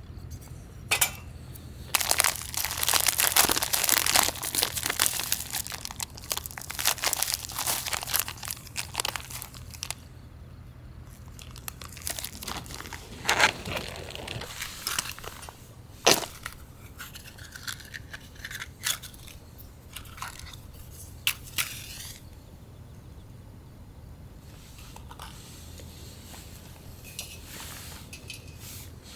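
Crinkling and rustling of something like a bag or packaging being handled for several seconds, followed by scattered sharp clicks and knocks.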